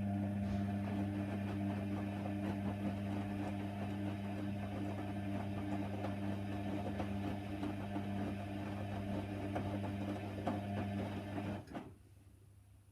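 Hoover Nextra HNWL 7146 washer-dryer running with a steady electric hum, which cuts off sharply near the end.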